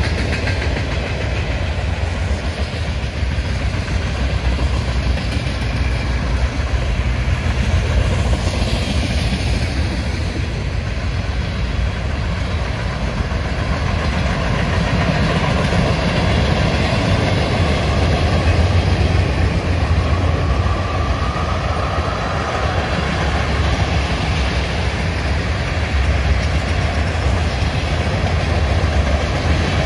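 Cars of a long CSX mixed freight train rolling by: a steady, loud rumble and rattle of steel wheels on the rails that swells and eases slightly as the cars pass.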